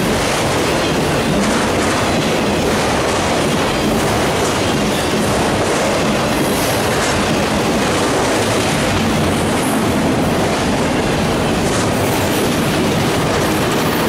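Freight train of enclosed autorack cars rolling past close by: a steady noise of steel wheels clacking and rolling on the rails.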